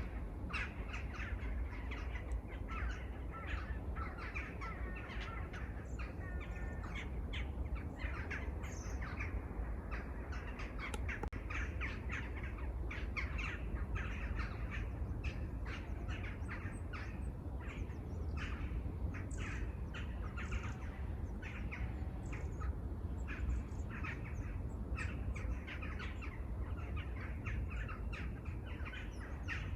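A large flock of birds calling over one another in a dense, continuous chorus of short calls, with crows cawing among them, over a steady low rumble.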